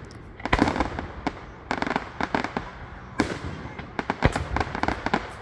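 Fireworks display: a run of sharp bangs and crackling reports in clusters, the loudest about half a second in, around two and three seconds in, and about four and a quarter seconds in.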